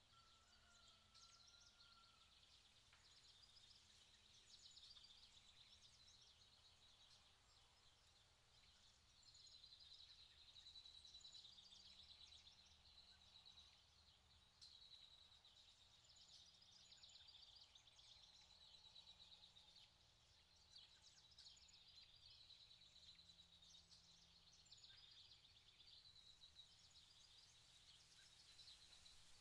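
Near silence: faint outdoor ambience with soft, high-pitched chirping throughout and a low hum underneath.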